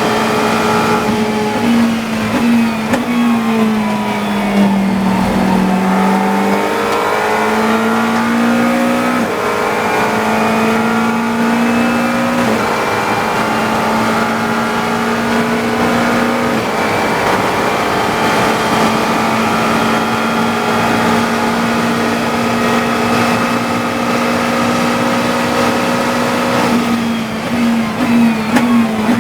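GT3 race car engine heard from the cockpit at racing speed: the revs dip and pick up again, climb through several gear changes, hold a steady high note for about ten seconds, then drop through a quick series of downshifts near the end.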